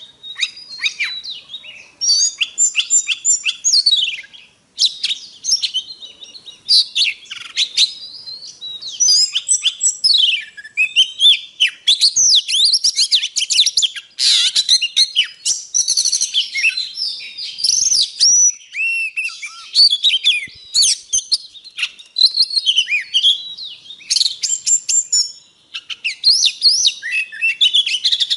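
Oriental magpie-robin singing a long, varied song of rich whistles, quick slurred notes and trills, almost without a break, with a short pause twice.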